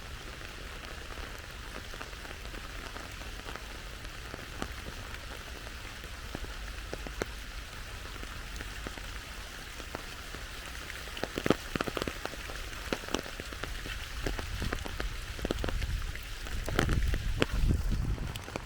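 Steady rain falling and pattering on surfaces. In the second half, a scatter of louder single drips ticks sharply over it, and a low rumble comes near the end.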